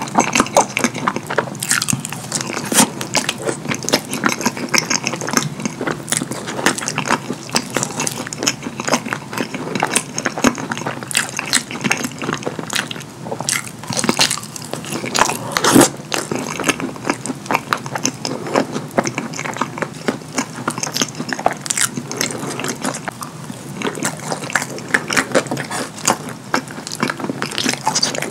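Close-miked chewing and wet mouth smacking on cheese-sauce-covered crinkle-cut fries, a steady run of sharp, wet clicks throughout.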